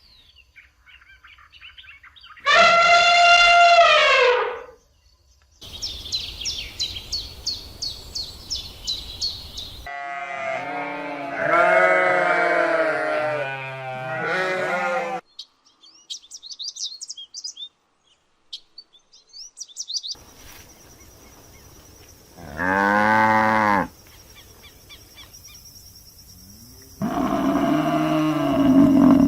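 A string of separate livestock calls, cut one after another: single drawn-out calls a few seconds apart and a stretch of several calls overlapping, with bursts of rapid high chirping in between.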